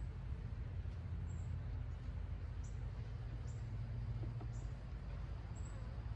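Honeybees buzzing around an open hive as a steady low hum, with short high-pitched chirps about once a second.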